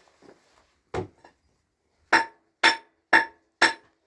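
Hammer blows on a hard surface that rings briefly with each strike. There is a single knock about a second in, then steady blows about two a second.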